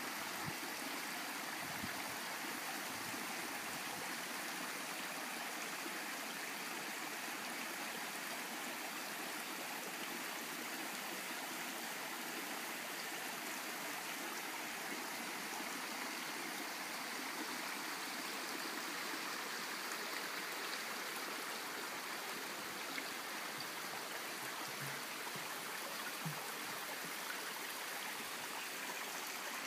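A babbling brook: water running steadily.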